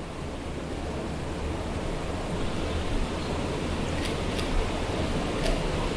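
River Coe rushing over rocks and small waterfalls, a steady noise of fast-flowing water, with a few faint clicks about four seconds in and again near the end.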